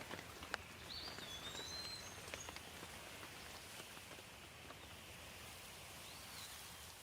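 Steady rain with crackling pops from burning firewood; the sharpest pop comes about half a second in, and the pops thin out after the first couple of seconds. A bird gives a short gliding whistle about a second in and again near the end.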